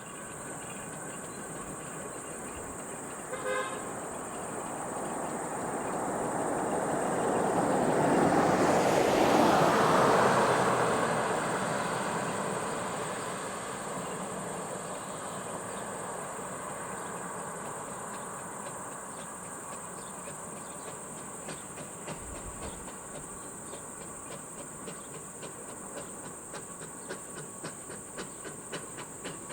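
Steam traction engine on the road: a brief toot about three and a half seconds in, then its running noise swells to a peak around ten seconds in and fades. It settles into an even, quick rhythm of short beats that grows clearer near the end.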